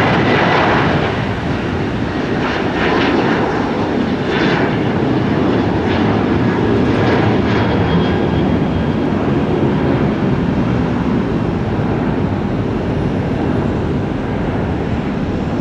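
Jet airliner's engines at takeoff power: a loud, steady rumble with some faint gliding tones, slowly fading toward the end.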